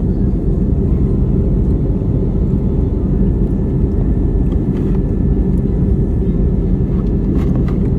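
Airliner cabin noise: jet engines and rushing air heard from inside the cabin as a loud, steady, low rumble.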